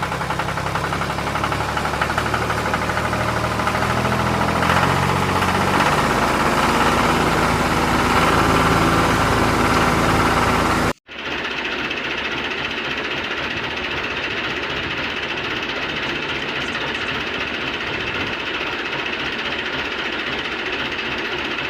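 A motor running steadily, engine-like. It breaks off for an instant about eleven seconds in and carries on with a slightly different tone.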